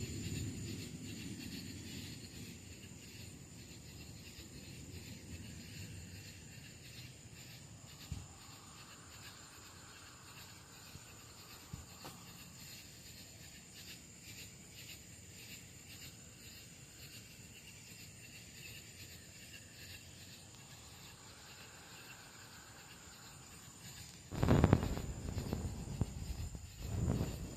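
Quiet outdoor ambience with insects chirping in a steady high, continuous tone and a couple of faint clicks. Near the end come two loud, low rumbling bursts.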